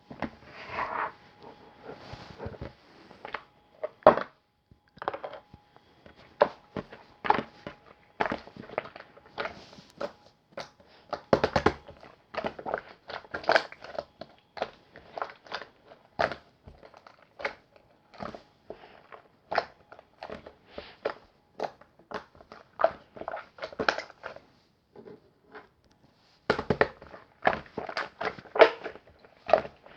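Close-up eating sounds: irregular crunchy bites and chewing with crackling and crinkling, pausing briefly a little before the end.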